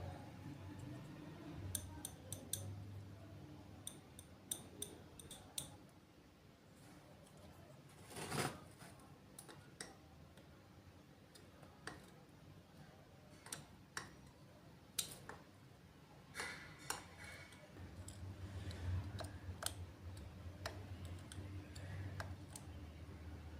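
Scattered, irregular light clicks and snips of small hand-tool work, like scissors cutting, with a short scraping swish about eight seconds in and a low hum in the last few seconds.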